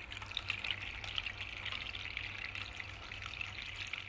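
Water from a small garden fountain trickling and splashing steadily into its reservoir, with a faint steady low hum underneath.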